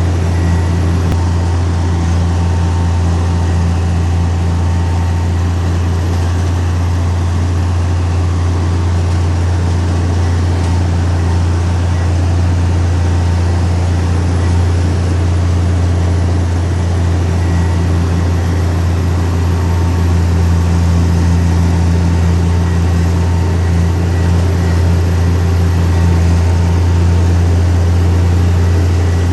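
Heavy diesel engine of earthmoving machinery running steadily at a constant speed, a deep even drone.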